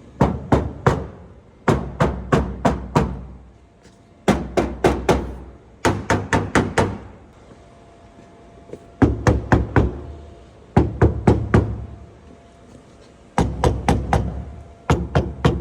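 Quick sets of three to five sharp knocks on the 1984 Camaro's sheet-metal body panels, some bare and some covered with sound-deadening mat, showing how the mat cuts down the panel rattle.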